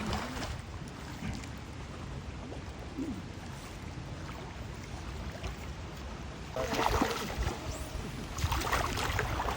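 Steady rush of flowing river water, swelling louder twice in the second half.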